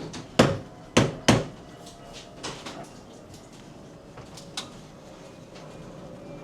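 Three sharp knocks within about a second, then scattered lighter clicks and taps, from espresso-bar equipment being handled at the machine.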